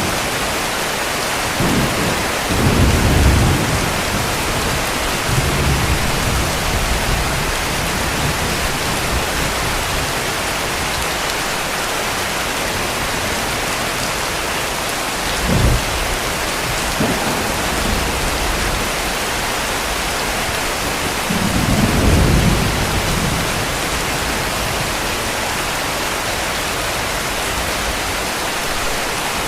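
Heavy rain falling steadily, with several low rumbles of distant thunder: short ones a few seconds in and about halfway, and a longer one about three quarters of the way through.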